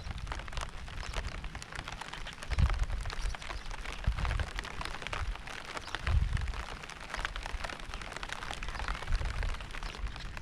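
Steady rain, with many individual drops striking close by. Deep low rumbles swell and fade every couple of seconds, loudest about two and a half and six seconds in.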